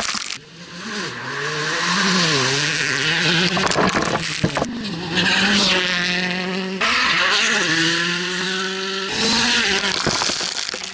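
Rally car engine revving hard, its pitch climbing and dropping again and again as it shifts and lifts off, with a steady hiss of tyres and stones on the gravel stage.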